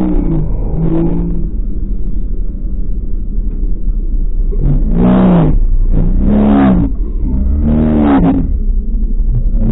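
A car engine idling with a low rumble and being revved: two short blips near the start, then three bigger revs in a row, each rising and falling in pitch, about a second and a half apart.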